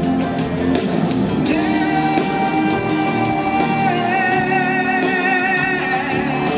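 Live pop-rock band with guitar and drums playing, over which a long high lead note is held from about a second and a half in, wavering with vibrato in its second half.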